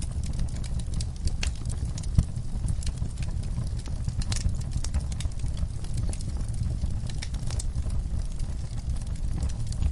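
Wood fire burning in a fireplace: a low steady rumble of flames with irregular crackles and pops, one sharper pop about two seconds in.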